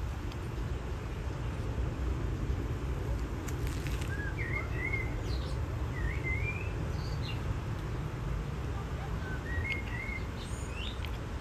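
Small birds chirping in short warbling phrases every few seconds, over a steady low outdoor rumble.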